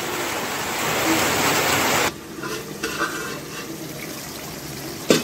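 Soya chunk curry frying in a kadai on a gas stove: a loud, steady sizzling hiss that drops off suddenly about two seconds in, then quieter sizzling as the steel lid is lifted, with a short metal knock at the very end.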